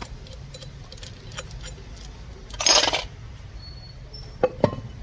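Metal hand tools and bolts clinking against an engine being dismantled: a short rasping noise about two and a half seconds in, then two sharp metallic clinks near the end.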